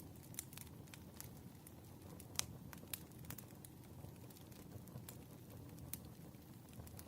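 Firewood burning, crackling faintly with scattered sharp pops over a low steady rush; the loudest pop comes about two and a half seconds in.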